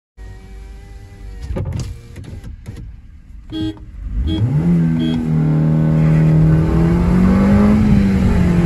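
Maruti Suzuki Ertiga's 1.5-litre petrol engine, heard from inside the cabin, idling with a few knocks, then launched hard about four seconds in: the engine note jumps up in pitch and stays high and loud under full acceleration.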